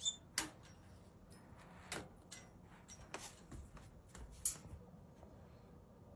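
Faint scattered clicks and taps, with a short high chirp right at the start: a budgie moving about in its cage.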